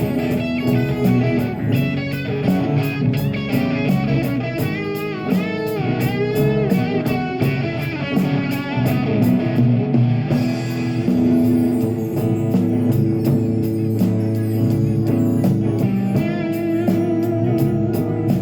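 Live rock band playing: electric guitar leading with bent, wavering notes over bass and a drum kit keeping time on the cymbals.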